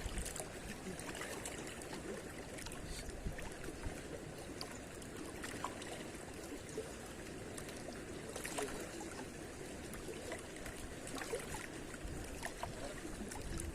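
Faint shoreline ambience: water lapping and trickling with a steady wash of wind, and scattered small clicks and taps.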